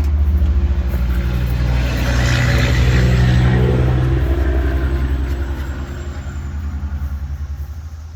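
A motor vehicle going by close at hand: a low engine drone with a rushing noise that swells about two to four seconds in, then fades away.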